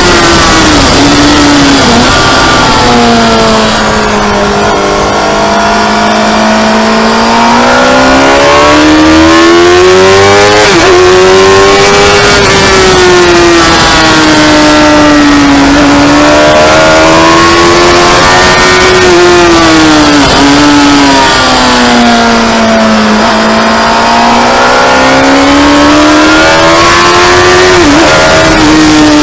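Motorcycle engine at high revs on a race track, its note rising slowly under acceleration and falling away again several times. A brief sharp dip in pitch comes about four times, at roughly nine-second intervals.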